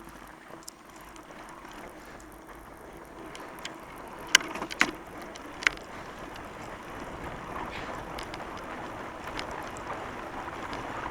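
Fat bike tyres rolling over wet, sticky snow: a steady rolling noise that slowly grows louder, with three sharp clicks about four to six seconds in.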